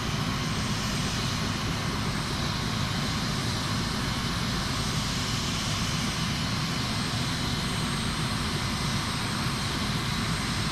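Helicopter running: a steady turbine whine over a fast, even rotor beat.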